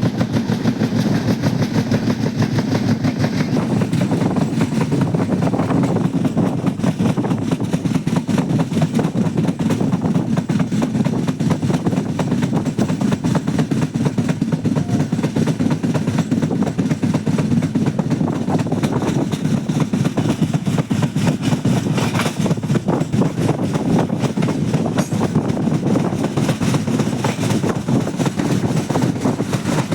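Indian Railways passenger train running along the track: a steady low rumble with dense rattling from the wheels and coaches.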